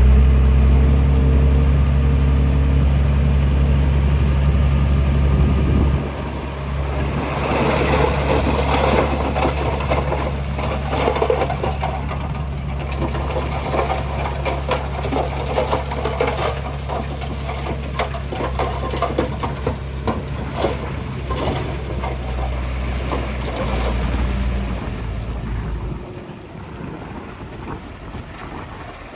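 A heavy machine's diesel engine runs steadily with a deep hum. From about a quarter of the way in, a dense crackling clatter of rock and soil joins it. Both drop away shortly before the end.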